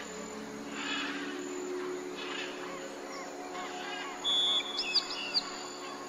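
Birds calling: short chirping bursts about every second and a half, then a loud held whistle a little past the middle, followed by two sharp rising whistles. A steady low drone lies underneath.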